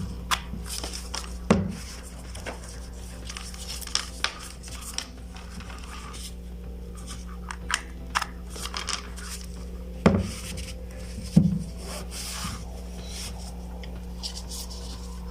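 Hands handling a plastic power bank and its charging cable: scattered clicks, taps and rubbing, with a few louder knocks, two of them close together past the middle. A steady low hum runs underneath.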